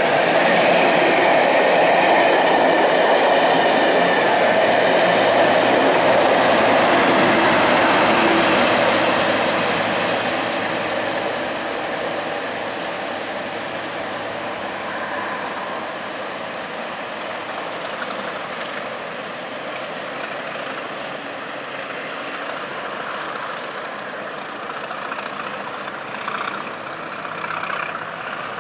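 Train of coaches hauled by a Colas Rail Class 37 diesel locomotive running past, wheels clattering over the rail joints, loud for about the first ten seconds. It then drops to a quieter, steady rumble as the train moves away.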